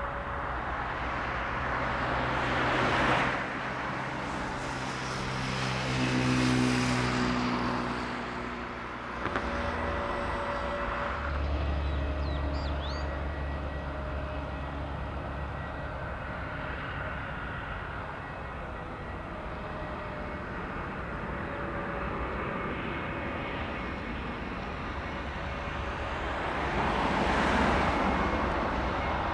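Jet airliner engines at an airport, growing and fading in loudness several times as aircraft move, with steady engine tones that shift in pitch a few seconds in. A low rumble holds steady for several seconds in the middle.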